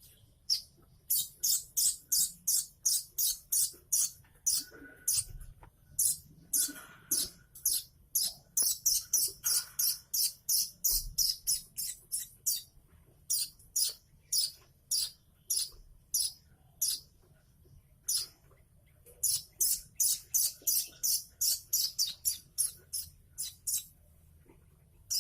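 Young manyar (weaver bird) chicks giving high, rapid begging chirps, about three a second, in long runs with short pauses, as chicks do when they are hand-fed.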